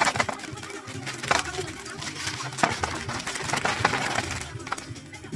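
Objects being handled, with a run of irregular clicks, taps and crinkling.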